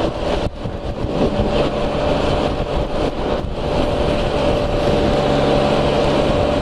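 Can-Am Spyder RT's Rotax 1330 three-cylinder engine running at a steady speed on the move, with wind and wet-road noise. A steady tone holds from about a second in until the end.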